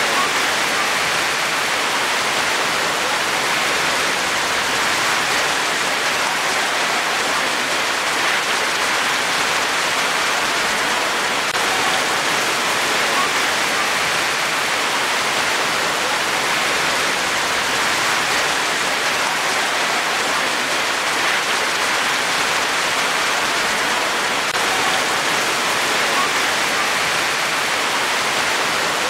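Steady rain falling: an even hiss that holds the same level throughout.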